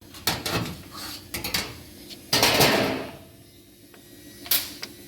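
Clicks, knocks and clattering of tools and metal parts being handled, with a longer, louder scraping rattle about halfway through.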